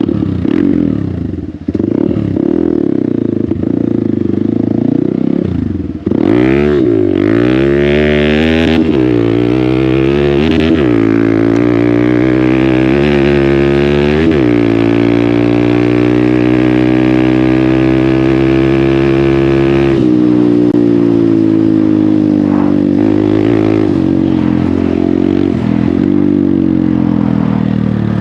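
Hero Xpulse 200's single-cylinder engine breathing through an MW Performance aftermarket exhaust, idling, then revved in quick blips about six seconds in. The revs are then held high and steady for several seconds before dropping back, with a few small blips, toward idle near the end.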